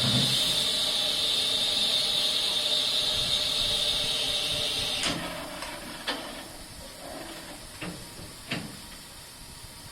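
Steam locomotive letting off steam in a loud steady hiss that cuts off about halfway through, followed by a few sharp knocks.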